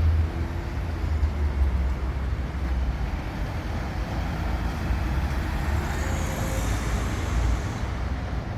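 Vehicle driving on a road: a steady low rumble of engine and tyre noise.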